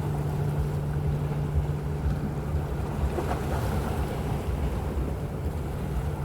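Carnival Magic cruise ship's machinery giving a steady low hum as she leaves port, which eases off about halfway through, with wind rumbling on the microphone.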